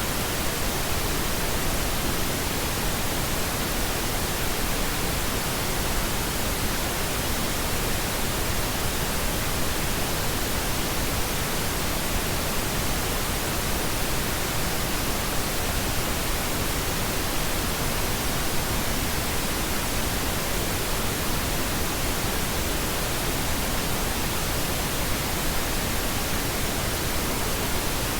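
Steady pink noise: an even, featureless hiss spread across all pitches, at a constant level.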